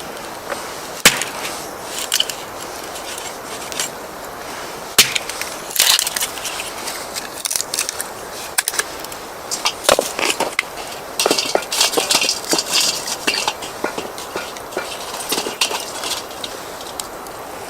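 Dry wood cracking and splintering: sharp cracks at irregular intervals, with denser stretches of crunching crackle.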